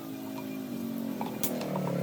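A motor running with a steady hum whose pitch sinks and then climbs again as it grows louder, with a sharp click about one and a half seconds in.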